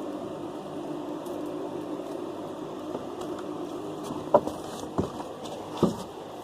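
Three short sharp knocks over a steady low hum, the first the loudest.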